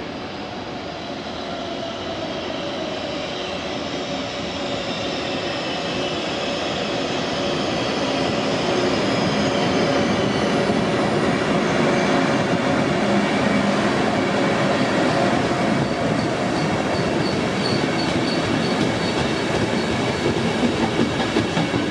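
A train running through the station, growing louder over the first several seconds and then holding steady, with thin high wheel squeal over the rumble. Toward the end a regular high ticking joins in.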